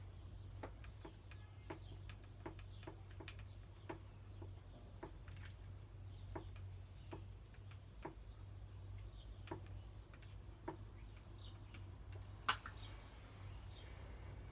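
Scattered light clicks and ticks, with one sharper click near the end, as sealant adhesive is laid in long beads onto a wooden batten from a cartridge gun. A low steady hum runs underneath.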